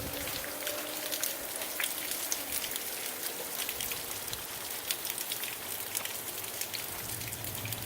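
Rain falling, with many small, sharp raindrop ticks over a steady hiss.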